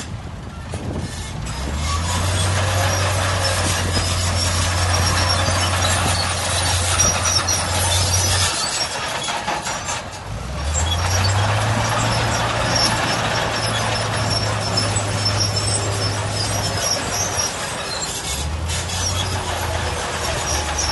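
Heavy diesel engines of earthmoving machines working in sand. The low engine note rises and settles a few times, under a steady hiss with faint high squeaks.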